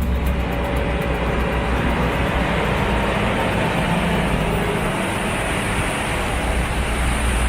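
Heavy vehicle engine running steadily: a low drone with road and mechanical noise, typical of a heavy-haul truck under way.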